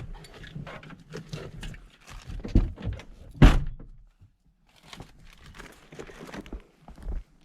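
A loud single thunk about three and a half seconds in, with a smaller knock just before it, amid scattered light knocks and rustling.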